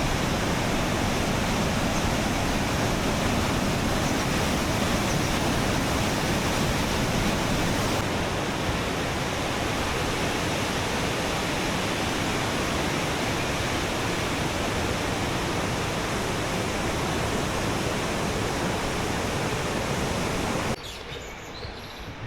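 Steady roar of rushing white water, a dense even noise with no tune or rhythm. It eases slightly about a third of the way in and cuts off suddenly near the end.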